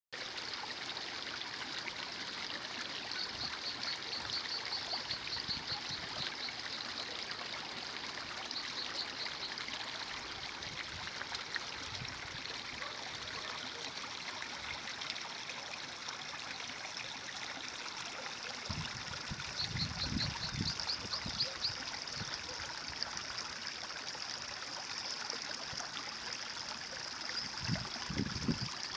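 A stream running with a steady rush and trickle of water. A bird's rapid, high trill sounds several times over it, and there are a few brief low rumbles about two-thirds of the way through and near the end.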